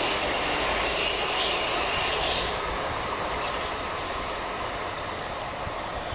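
Class 377 Electrostar electric multiple unit running through the station at speed, its rumble and wheel noise slowly fading as it draws away. A faint high whine sounds for a moment about a second in.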